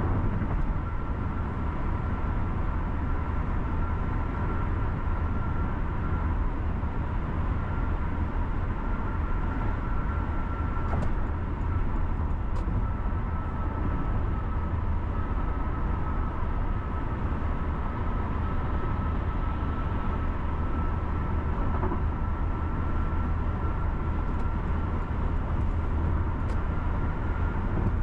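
A car driving steadily on a road, with a constant low rumble of engine and tyres and a thin steady whine above it. A few faint ticks come through partway along.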